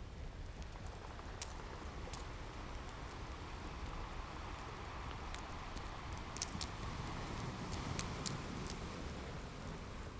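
Wood fire crackling, with scattered sharp pops, over a steady wash of ocean waves that swells and falls away in the middle.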